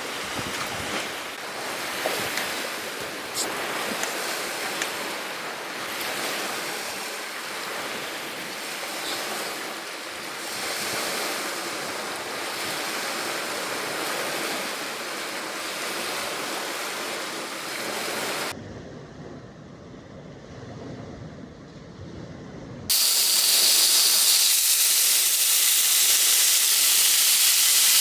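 Steady rain falling, with scattered ticks of drops striking. About 18 s in it cuts to a quieter, muffled version of the sound, and about 23 s in to a louder, even hiss.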